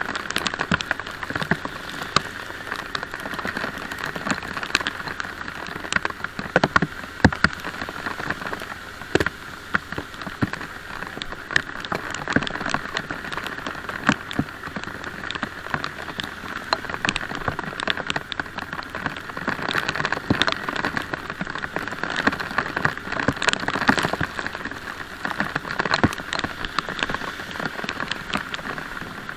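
Rain falling steadily, with many sharp ticks of drops striking close by.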